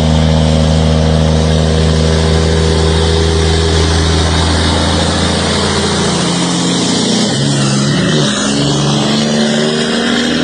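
Diesel engine of a heavily loaded log truck working hard up a steep grade, a steady low engine note under a broad hiss. About seven seconds in the engine note wavers and shifts as the revs change.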